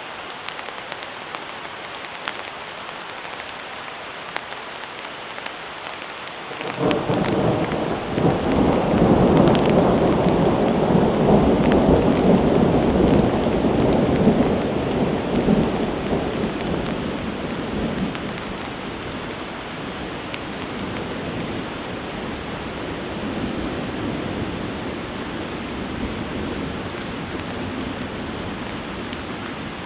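Heavy rain falling steadily. A clap of thunder breaks in suddenly about a quarter of the way through, then rolls on as a deep rumble for several seconds before slowly fading back under the rain.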